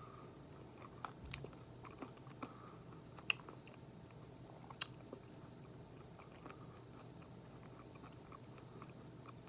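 Faint chewing of a chewy nut-and-oat granola bar, with scattered soft mouth clicks and two sharper clicks, about three and five seconds in.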